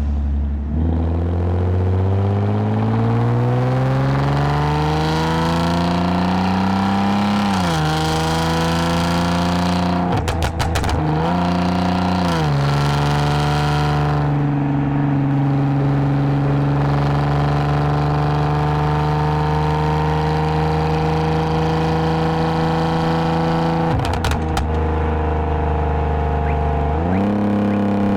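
2010 Lexus IS250 AWD's 2.5-litre V6 through an aftermarket full exhaust, pulling under acceleration: the engine note climbs steadily for about seven seconds, drops sharply at an automatic upshift, then settles into a steady cruise. About 24 seconds in the note falls away, then jumps back up near the end as the transmission downshifts, with a few brief clicks around these gear changes.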